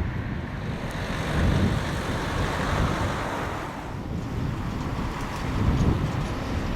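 Wind buffeting the microphone, a gusty low rumble that swells and fades in waves over a steady background hiss.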